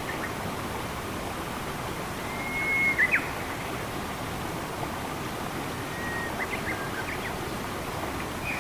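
Steady rushing water of a forest stream, with a small bird whistling twice over it: each time a held note followed by a few quick short notes.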